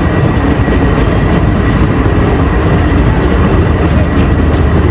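Passenger train running past close by: a loud, steady rumble of wheels on the rails.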